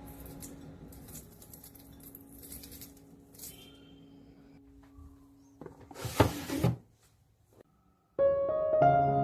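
Faint kitchen handling sounds over a steady low hum, then a short loud rush of noise about six seconds in. Soft piano music starts near the end.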